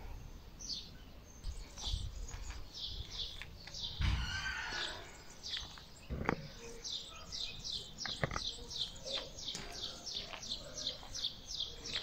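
A small bird chirping over and over in short high notes, settling into a fast, even series of about four chirps a second in the second half. A brief rustling burst about four seconds in, and a couple of sharp clicks.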